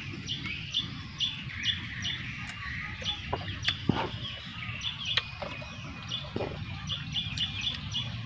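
Birds chirping: short high notes repeated in quick runs of several a second, with scattered light clicks and taps of food being handled and eaten.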